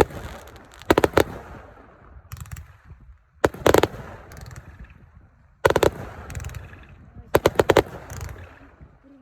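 Consumer fireworks going off in quick clusters of sharp bangs, four bursts of reports about two seconds apart, each trailing off in crackle.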